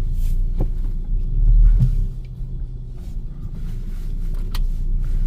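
Car engine running at low speed, heard from inside the cabin as a steady low rumble that swells briefly about a second and a half in, with a few light clicks.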